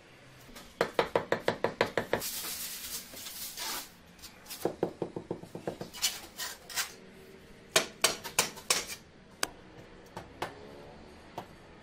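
Hard taps and knocks, a tool striking hard material, in quick runs of about eight strokes a second, the first about a second in and another about five seconds in. Between them comes a stretch of rough, hiss-like noise, and single knocks are scattered after.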